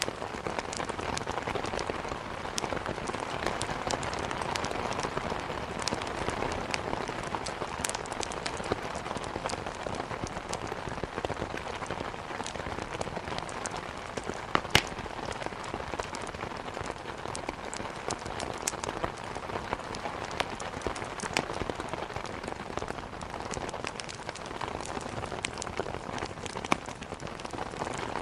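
Steady rain with scattered sharp pops and crackles from burning firewood; the loudest pop comes about halfway through.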